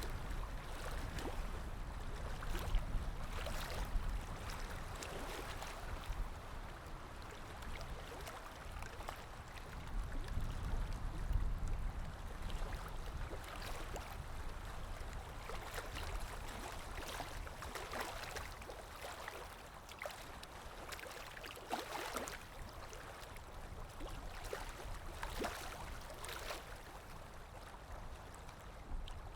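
Calm small waves lapping, a steady wash broken by frequent small splashes and gurgles.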